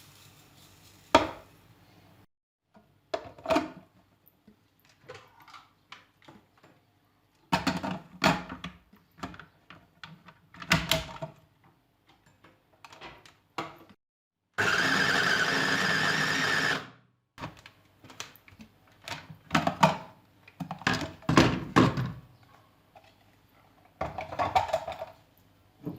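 Kitchen handling sounds: a string of knocks, taps and clatters from things being picked up and set down, with one steady rushing noise lasting about two seconds midway that starts and stops abruptly.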